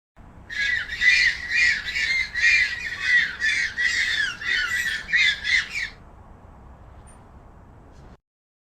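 Birds squawking: a rapid run of harsh calls, about two a second, that stops abruptly about six seconds in, leaving a faint hiss.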